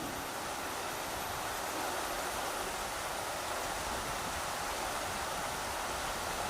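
Rushing river water, a steady even rush of flowing water.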